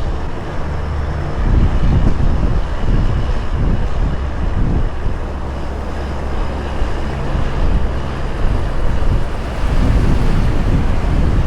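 Heavy-haul truck's diesel engine running under a heavy load, a low drone that shifts pitch a few times, over road and wind noise.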